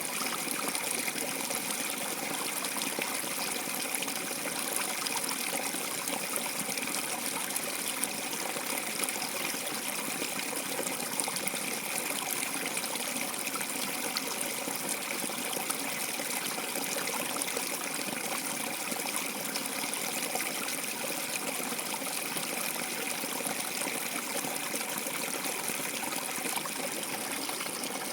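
Water trickling and running steadily, as of a small stream or water channel.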